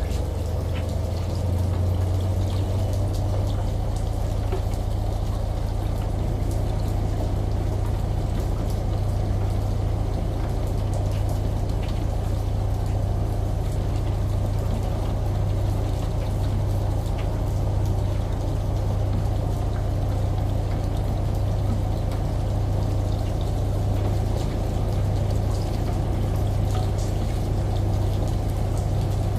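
Layered ambience of a washing machine running under pouring shower water and rain: a steady low hum beneath a constant rush of water, with scattered drips.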